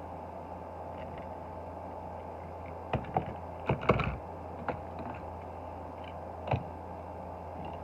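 Light clicks and knocks of small diecast toy vehicles being handled, picked up and set down, over a steady background hum. A cluster of knocks comes about three to four seconds in, and one more near the end.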